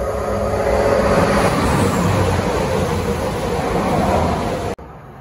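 EMR Intercity Class 222 Meridian diesel train approaching and running along the platform, its noise building over the first second and staying loud. It cuts off abruptly near the end.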